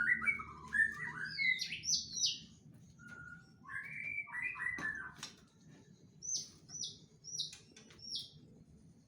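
White-rumped shama (murai batu) singing in varied whistled phrases, with a series of quick, high falling slurs near the end.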